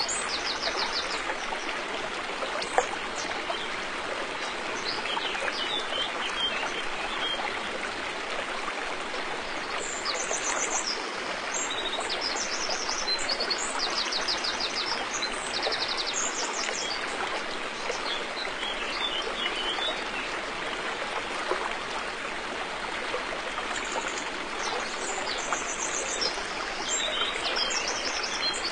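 River water flowing steadily over rocks, an even rushing sound. Small birds give bursts of rapid, high trilled chirps several times over it.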